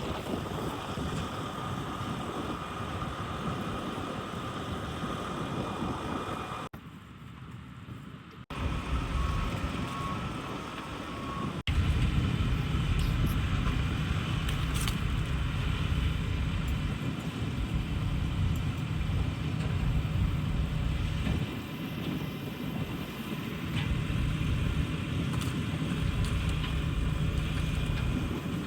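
Machinery of a Mitsubishi Fuso jet dryer truck running steadily, with no single event standing out. The sound breaks off and changes abruptly several times, and a heavier, louder rumble sets in about twelve seconds in.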